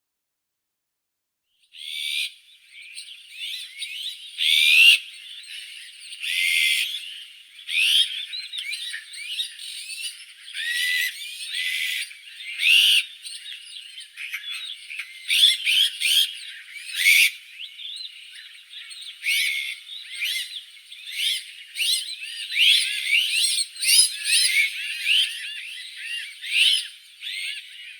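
Azure-winged magpie calling: a dense run of short chirps and whistles that slide up and down in pitch, starting about two seconds in.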